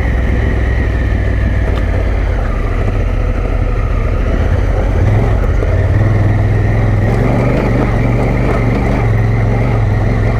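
Dual-sport motorcycle engine running steadily under way on a dirt track, with wind noise over the microphone; the engine note gets stronger about halfway through.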